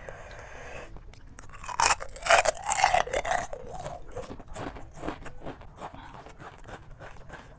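Close-up crunching and chewing of crisp snack food, many small crisp crackles, with a louder noisy stretch about two to three seconds in.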